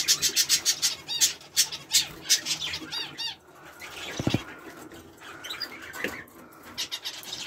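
Small aviary birds, zebra finches and canaries, calling with quick sharp chirps. The chirps come thick and fast for the first few seconds, then turn to scattered calls.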